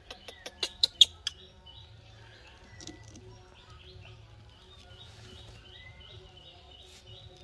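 A quick run of sharp clicks in the first second or so, the loudest sounds here. Then a small bird chirps over and over in the background, short high notes about three a second.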